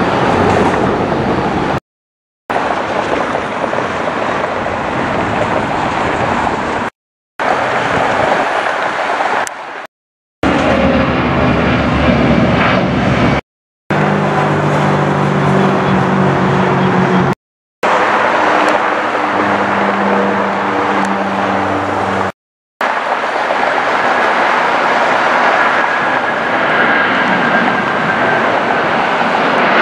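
Jet airliner engines, heard in a string of short clips a few seconds each, separated by abrupt silent cuts. One clip near the middle holds steady low droning tones under the engine noise.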